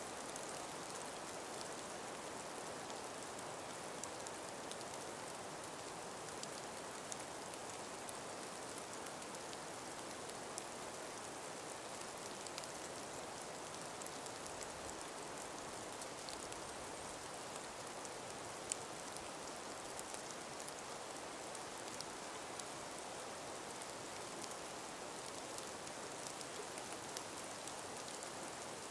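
Gentle breeze in an ice- and snow-laden forest: a steady soft hiss, with scattered faint ticks throughout.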